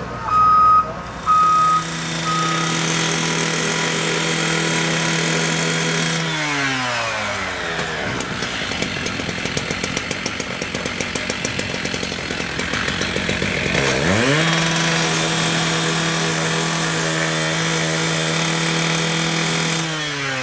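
Heavy demolition machine's diesel engine running, with its reversing alarm beeping a few times at the start. About six seconds in the engine speed falls away and a rapid clatter follows; about fourteen seconds in the engine climbs back up and runs steady again.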